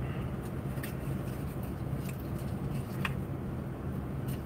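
Old Toyota's engine idling, a steady low hum heard from inside the cabin, with a few faint clicks.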